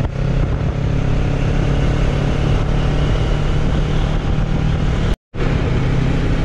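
Motorcycle engine running steadily at cruising speed, with wind rush over the microphone. The sound cuts out completely for a split second about five seconds in.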